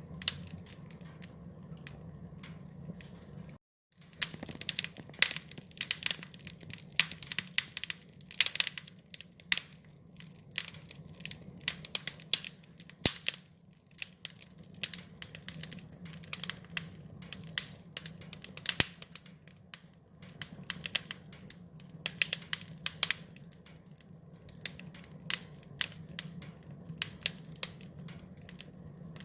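Wood fire crackling, with many irregular sharp pops and snaps over a low steady rumble. The sound cuts out for a moment about four seconds in.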